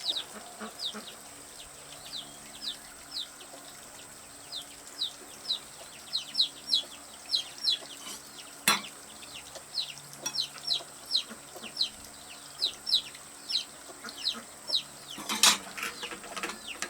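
Chicks peeping over and over, short high downward chirps a few times a second, with a steady thin high whine behind them. There is a sharp click about halfway through and a brief louder scuffle near the end.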